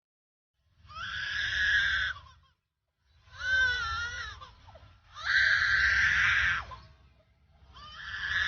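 Superb lyrebird mimicking a crying human baby: four drawn-out, screaming wails with short pauses between them, the third wavering up and down in pitch.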